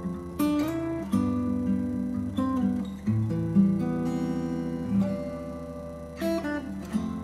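Acoustic guitar music: plucked and strummed notes in a melody over a bass line.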